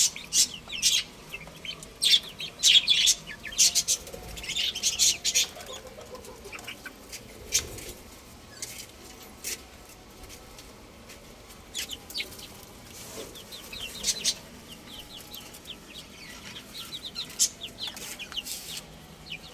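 Baby chicks peeping: clusters of short, high chirps, with runs of quick falling peeps in the second half, among scattered short rustles and taps.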